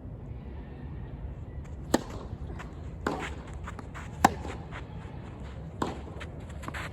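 Tennis balls being hit during a rally: four sharp racket strikes and bounces a second or so apart, the third the loudest.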